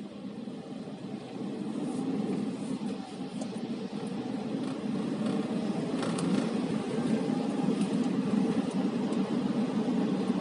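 Car driving, heard from inside the cabin: a steady low engine and road noise that grows louder over the first few seconds.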